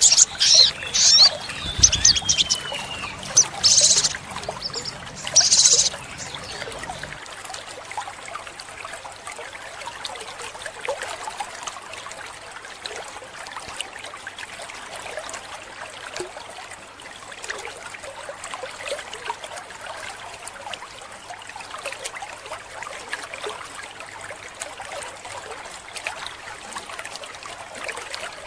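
Olive-backed sunbird calling in loud, high, sharp bursts with a short falling trill, for about the first six seconds. Then steady trickling water with faint scattered chirps.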